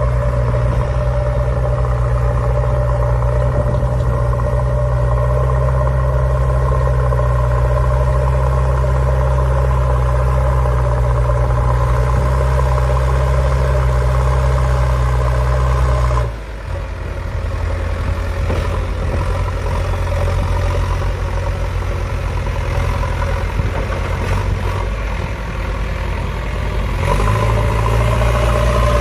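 Tractor-type engine sound idling steadily with a deep hum. About halfway through it drops to a lower, slightly quieter note, and it returns to the first note near the end.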